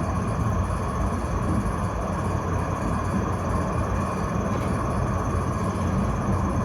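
Vienna tram running, a steady low rumble with a faint hum and no distinct knocks or changes.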